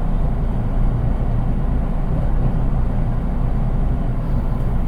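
Steady running noise inside a JR East 183 series express-type electric train's unpowered driving trailer car (KuHa 183): a continuous low rumble of wheels on rail and the car body, with no traction-motor whine because the car has no motors.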